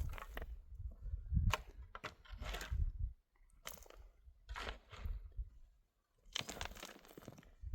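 Repeated crunching in stony soil, roughly one crunch a second with a dull low thud in each and short pauses between.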